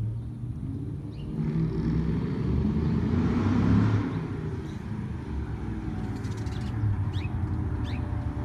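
2005 Ford Mustang engine running through long-tube headers, an off-road H-pipe and Borla Stinger mufflers, growing louder from about a second and a half in, peaking near four seconds, then settling to a steady run. A few short bird chirps come near the end.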